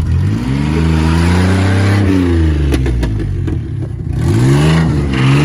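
Dodge Dakota pickup's engine revved twice after a cold start. A long rise and fall fills the first three seconds, and a second rise comes near the end. It is running rough, "like dog shit".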